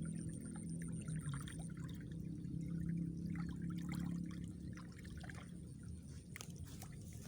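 Water pouring and trickling, with many small splashes over a low hum that fades about halfway through.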